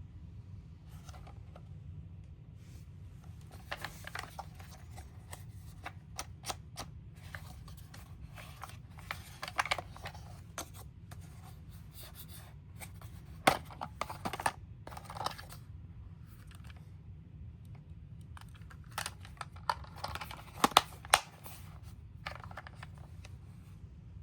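Plastic toy vehicles being handled and set down: irregular clicks, taps and short scrapes, sharpest about halfway through and twice more near the end, over a steady low hum.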